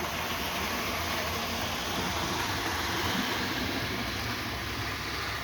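A Hornby 00 gauge model locomotive running steadily around the track: the even whir of its small electric motor and wheels on the rails.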